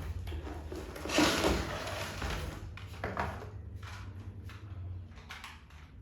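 Handling of a toy truck: a rustle about a second in, then a series of light clicks and knocks, over a low steady hum.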